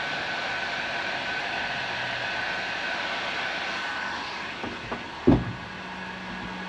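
Heat gun blowing steadily with a high whine as plastic is reheated, switched off about four seconds in. A couple of light knocks and one louder thump follow.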